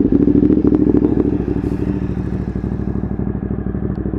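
Ducati Monster 1200's L-twin engine with an Austin Racing aftermarket exhaust, just started: it catches loudly and then settles into a steady idle with an even, rapid pulse.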